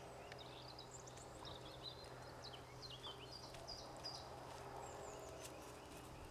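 Faint wild birdsong: many short, quick chirping notes from small birds in the trees, over a steady low hum.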